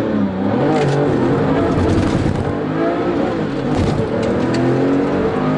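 Tuned 2002 Porsche 996 Turbo's twin-turbo flat-six under full throttle, launching from a standstill and accelerating hard. The engine note climbs in pitch and drops back at each upshift.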